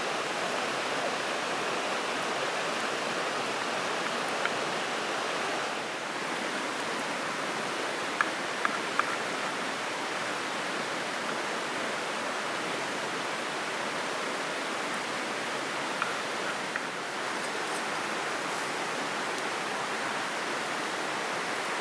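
Steady rush of a flowing river. A few short sharp clicks stand out over it, a small cluster about eight seconds in and two more near sixteen seconds.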